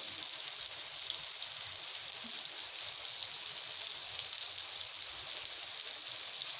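Cooked basmati rice and garlic sizzling in butter in a pan: a steady, even hiss.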